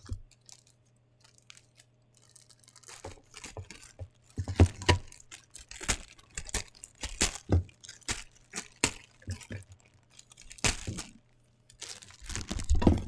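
Packaging being torn open and handled: irregular rips, crinkles and crackles of plastic and cardboard, starting about two seconds in and going on in uneven bursts.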